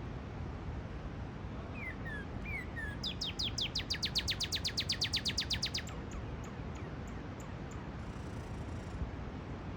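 Northern cardinal singing: a few slurred whistles, then a fast run of about two dozen sharply falling notes lasting nearly three seconds. A steady low rumble of background noise lies under it.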